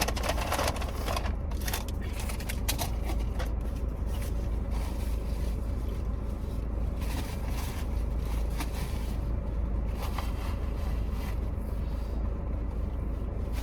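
Someone eating the last French fries: chewing with scattered crackles and rustles of the paper packaging over a steady low rumble.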